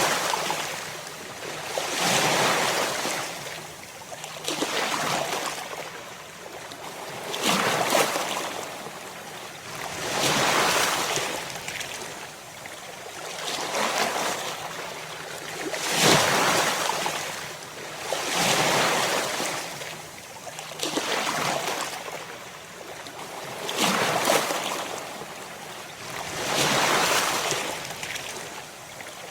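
Ocean waves breaking on a shore, a new wave every two to three seconds, each swelling into a hiss of surf and then falling back.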